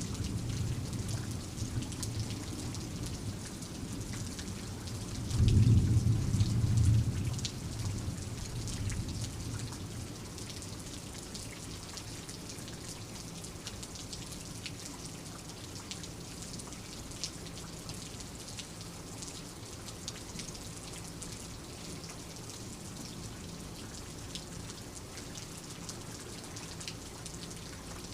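Steady rain with drops pattering, under a low rumble of thunder. A louder thunderclap comes about five seconds in and rolls away over the next few seconds, leaving the rain alone.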